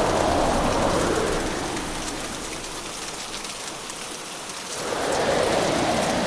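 Hurricane downpour: a dense, steady rush of heavy rain. It eases for a few seconds in the middle and swells back up about five seconds in.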